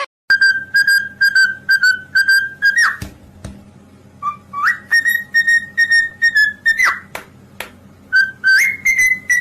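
Pet parrot whistling a tune: quick strings of short notes on one pitch, each phrase closing with a fast swoop up and back down, three phrases in a row.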